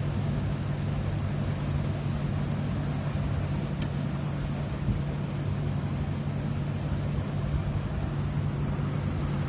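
A steady low hum with an even hiss behind it, and one faint click about four seconds in.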